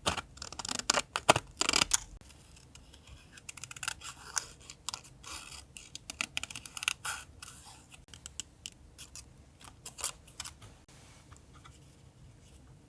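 Scissors cutting paper for a collage: a loud run of crisp crackling cuts for about two seconds, then quieter, scattered snips and paper rustles that die away near the end.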